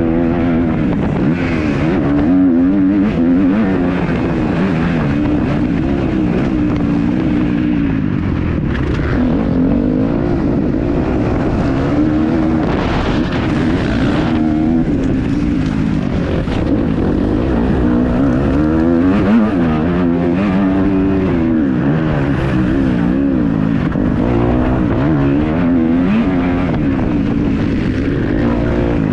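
Kawasaki KX250F four-stroke single-cylinder motocross bike engine being ridden hard, its revs climbing and dropping again and again as the rider accelerates, shifts and backs off.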